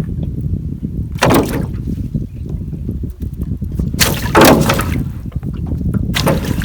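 Water splashing three times, each a short loud splash, over a steady low rumble of wind on the microphone.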